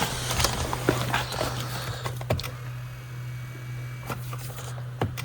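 A steady low hum with scattered light clicks and knocks of handling in the first two or three seconds, then quieter.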